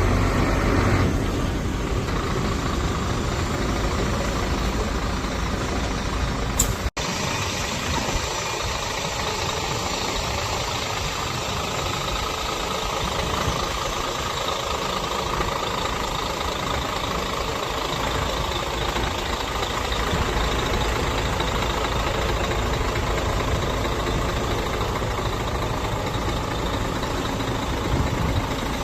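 Scania truck's diesel engine idling steadily. A sharp click with a split-second gap in the sound comes about seven seconds in.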